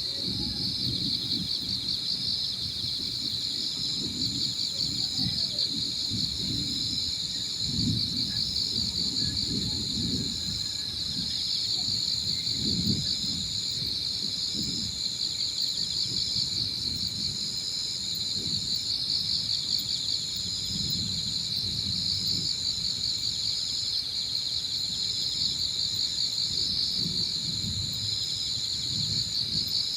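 Evening insect chorus: a dense, steady trilling with a second, thinner high-pitched insect note above it, over a low, uneven rumble of wind gusting on the microphone.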